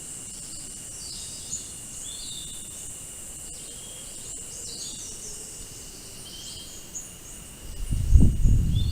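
Outdoor ambience of insects droning steadily at a high pitch while birds chirp now and then. Near the end a loud low rumble comes in.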